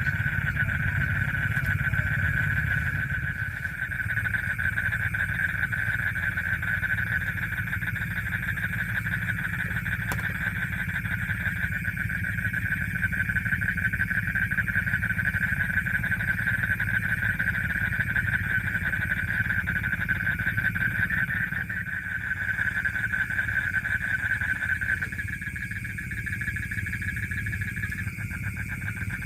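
A continuous night-time chorus of calling animals, a high, fast-pulsing trill, over a low steady rumble.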